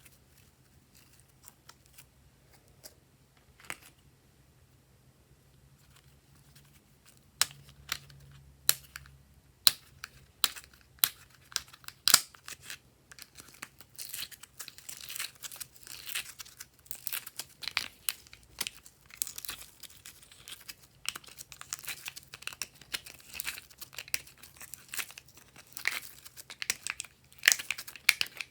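Glossy slime being mixed and pressed by hand, giving sticky clicks and pops. It is nearly quiet at first, with single sharp clicks coming in after about seven seconds, then a dense, steady crackle from about halfway.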